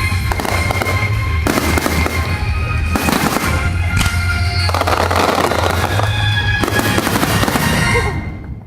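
A dense run of fireworks bursting and crackling over music playing along with them. The bursts and music fall away near the end.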